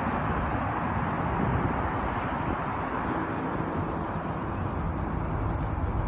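Steady traffic noise from a busy multi-lane highway: an even rush of tyres and engines with no single vehicle standing out.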